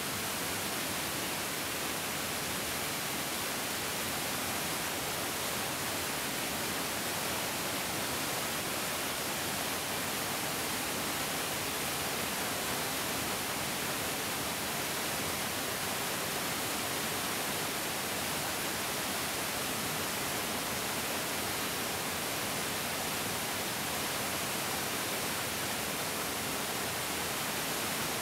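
Mountain stream water rushing and flowing over rocks, a steady even rush with no change.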